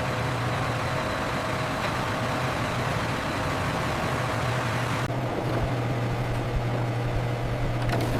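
Factory machinery running steadily: a constant low hum under a broad hiss. The higher part of the hiss falls away about five seconds in.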